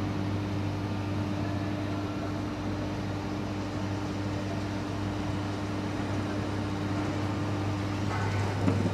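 Steady electrical hum of industrial welding machinery, with a second, higher steady tone running alongside it that stops about eight seconds in.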